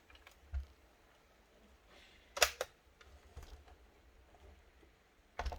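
Clicks and knocks from a laptop being handled during reassembly: a soft thump about half a second in, a sharp cluster of clicks about two and a half seconds in, and another burst of clicks near the end.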